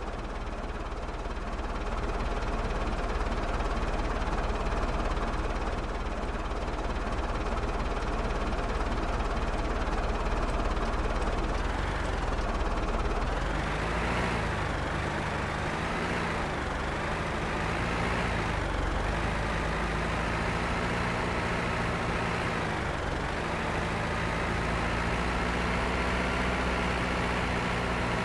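MTZ-82 tractor's four-cylinder diesel engine running, rough and steady at first. From about halfway on, its pitch rises and dips several times as the revs change.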